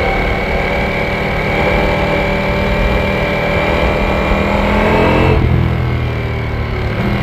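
Ducati Panigale V4S's V4 engine pulling under throttle, its pitch climbing slowly; about five seconds in the revs drop sharply and it runs on steadily at lower revs.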